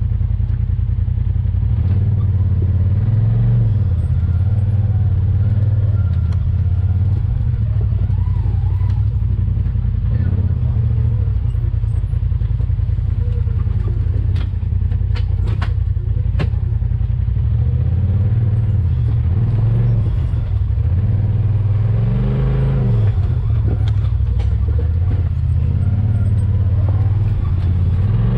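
Side-by-side UTV engine running while driving an off-road trail, its pitch rising and falling with the throttle. A few sharp knocks come in the middle.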